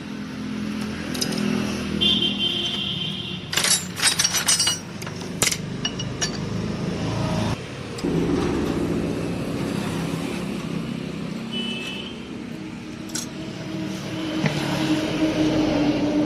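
Metal tools and engine parts clinking and scraping as a scooter engine is taken apart, with a cluster of sharp clinks about four seconds in and single clicks later, over a steady low engine-like hum.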